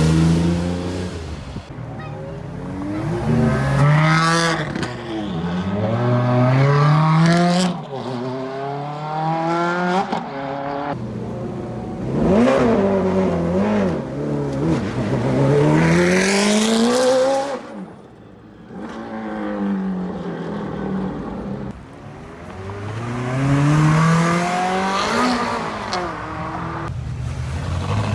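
Several Ferrari V8 and V12 sports cars accelerating hard away one after another, each engine revving up in rising sweeps as it pulls through the gears.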